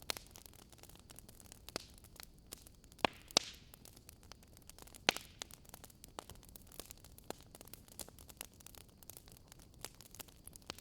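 Wood fire crackling in a fireplace: a low steady hiss with irregular sharp pops and snaps, a few louder pops around 3 and 5 seconds in.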